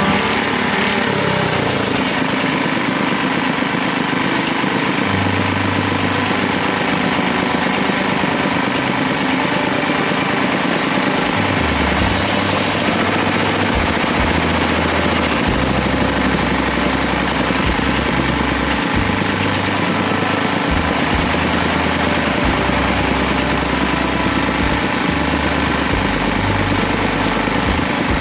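Engine of a small well-drilling rig running steadily.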